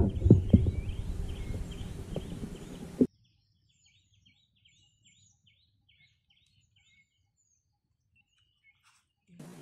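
Small birds chirping in a quick repeated series over a low rumble and a few thumps. About three seconds in there is a sharp click, then the sound drops almost to silence, with the chirps faintly going on, until it comes back near the end.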